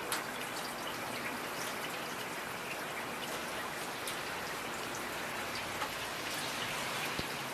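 Steady rain with individual drops pattering and ticking sharply on hard surfaces.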